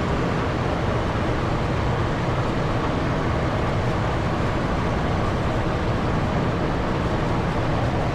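Steady rush of airflow and jet engine noise heard inside the cockpit of a Cessna Citation XLS business jet on final approach in gusty wind.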